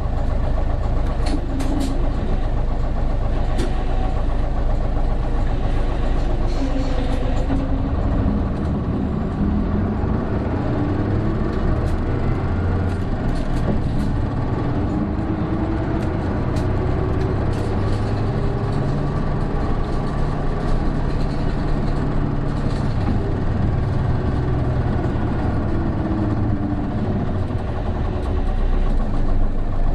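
Interior running sound of an Isuzu Erga PJ-KV234L1 diesel city bus, heard from inside the cabin: a steady low drone at first, then the engine pitch rising and falling repeatedly from about eight seconds in as the bus pulls away and accelerates. This bus is known for an odd drivetrain whine that sets in from about 1300 rpm, once the turbo comes in.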